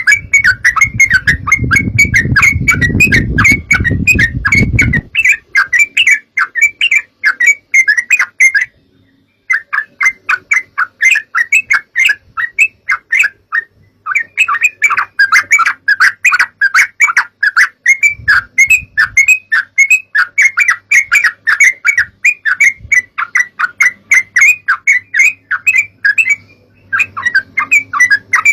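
Yellow-vented bulbuls (trucukan) calling in a fast, continuous chatter of short bubbling notes, with a couple of brief breaks. A low rumble lies under the first few seconds.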